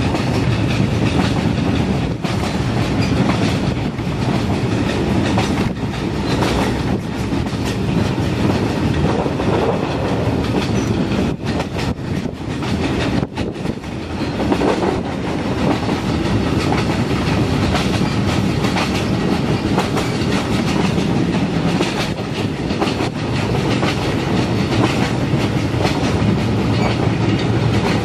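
TAZARA passenger train running at speed, heard from on board: a steady rumble of the wheels and carriage with a rhythmic clickety-clack over the rail joints.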